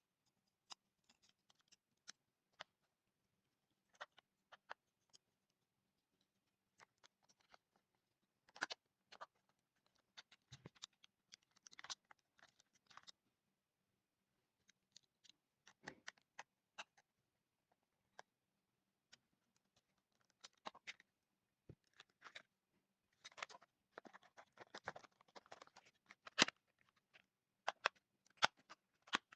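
Faint, scattered clicks and short bouts of scraping and rattling, like small parts and hand tools being handled during repair work, with a busier stretch of scraping near the end.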